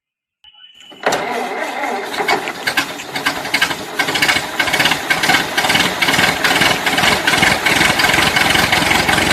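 Toy vehicle's engine sound, a loud, dense mechanical running noise with a fast regular beat that starts suddenly about a second in and cuts off abruptly at the end.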